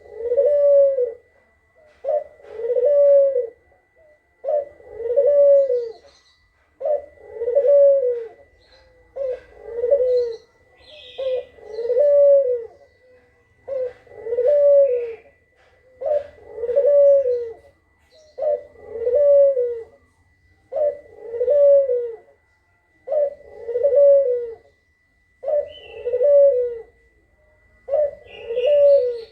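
Kugeruk bird's low cooing call, played as a lure call. Each phrase is a short note followed by a longer arched one, repeated about every two and a half seconds.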